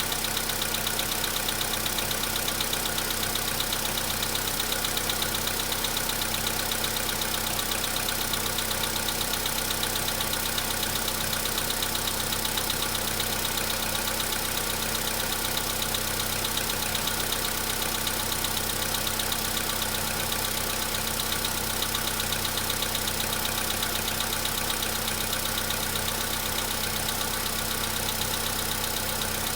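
Volkswagen Polo Sedan's CFNB petrol engine running just after a cold start at about −10 °C, with a steady, rapid knock. The engine knocks while cold and the knock dies away as it warms up.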